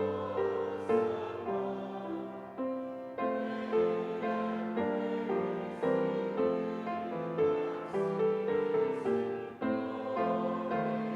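Piano playing slow, gentle music, with struck chords that ring and fade one after another.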